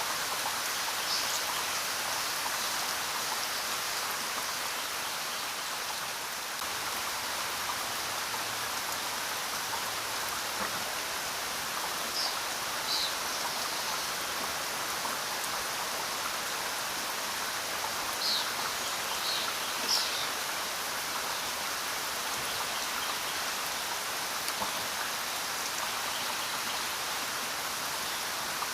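Steady rainfall, an even hiss of rain on the ground and leaves, with a few short high chirps over it near the start and in the middle.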